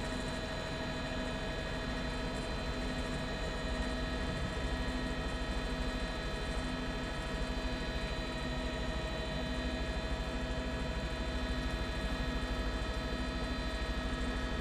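Steady drone of a news helicopter's turbine engine and rotor, heard from inside the cabin, with a constant whine of several steady tones over a low rumble and a faint regular pulsing.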